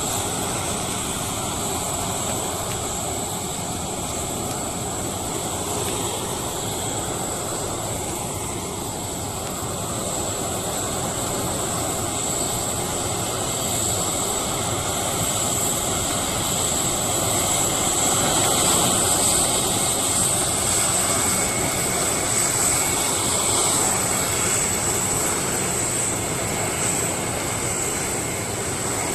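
Concorde's Olympus 593 turbojet engines running on the ground: a steady jet rumble with a high whine, swelling a little about two-thirds of the way through, where a second, lower whine tone comes in.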